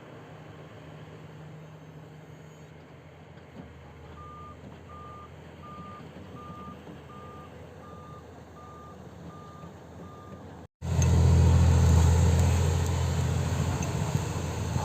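Heavy-equipment back-up alarm beeping about nine times, a little more than one beep a second, over a diesel engine running at a distance. After a brief break near the end, a diesel engine running much louder and closer.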